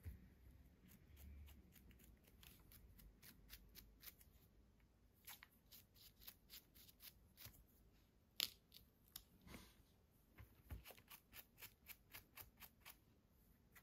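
Faint scratching and clicking as soil is brushed off soft, freshly picked mushrooms, a run of short strokes with one sharper click a little past halfway.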